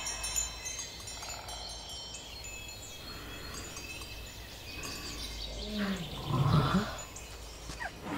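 Wind chimes tinkling lightly, then about six seconds in an elephant gives a low, wavering call lasting a second or so, the loudest sound here.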